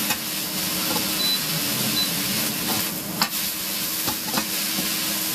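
Food sizzling steadily in a hot frying pan while being stirred, with a few sharp clicks, the loudest about three seconds in.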